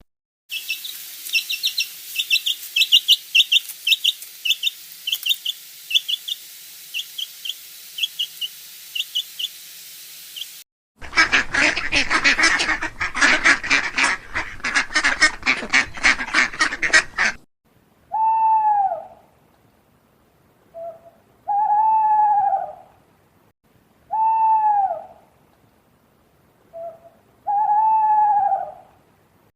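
Bird calls in three parts: rapid high chirping over a steady hiss for about ten seconds, then a dense racket of many fast overlapping calls for about six seconds, then a single call repeated about every three seconds, each note rising and falling in pitch.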